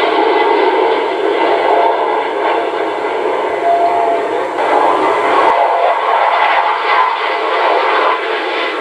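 Loud, steady jet engine noise from aircraft at an airshow, with an abrupt change in tone about five and a half seconds in.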